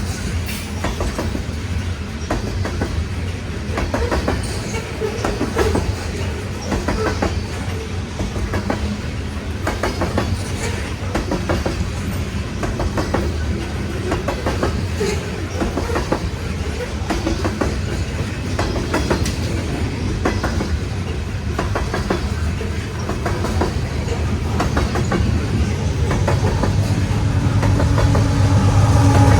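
Loaded coal hopper cars rolling past on steel wheels: a steady low rumble with a dense, irregular clicking of wheels over rail joints. Near the end a low engine drone grows louder.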